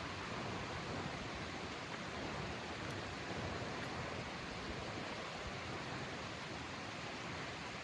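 Steady outdoor forest ambience: an even rushing noise with no distinct events.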